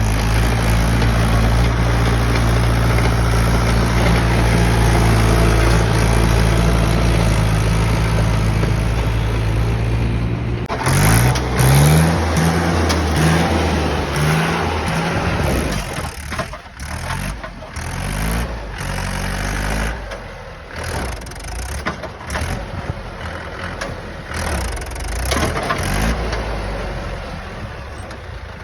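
Diesel tractor engine running hard under load, with a steady, even note. About ten seconds in it gives a few quick rising revs, then the sound turns uneven and choppy.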